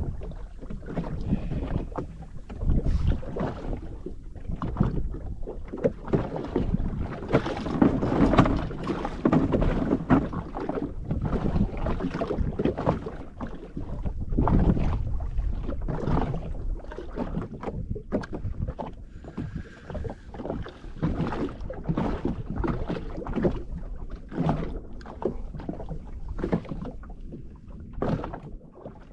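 Small waves irregularly slapping and sloshing against the hull of a drifting jet ski.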